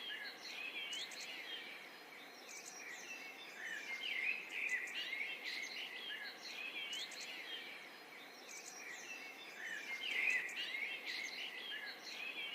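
Several birds chirping and singing, quick rising and falling chirps in busy spells every few seconds over a steady background hiss.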